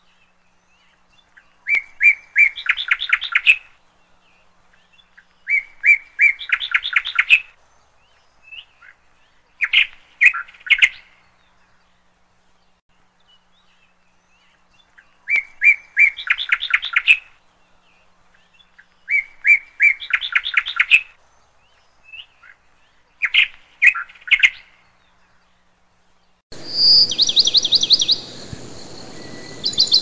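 A songbird singing the same short phrase six times, about every four seconds: a few clear notes, then a rapid trill. Near the end a higher, faster bird song comes in over a steady hiss.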